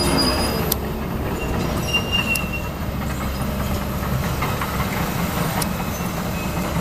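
Excavator's diesel engine running steadily at a demolition, with a few sharp clanks and short high metallic squeaks from the machine and debris.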